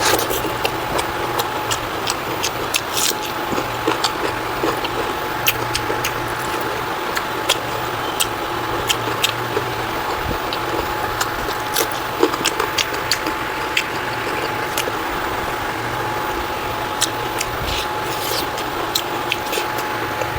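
Eating sounds: irregular sharp clicks and smacks of chewing, over a steady background hum with a faint steady tone.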